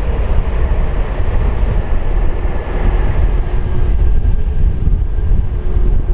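Low jet rumble from an Airbus A340-600's four Rolls-Royce Trent 500 engines as the airliner lands and passes, the higher-pitched hiss fading away while the deep rumble stays loud.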